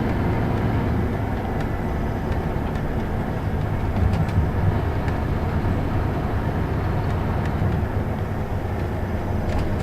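Scania Citywide LE tri-axle city bus driving along: a steady low engine and drivetrain rumble with road noise, and a few brief rattles and knocks.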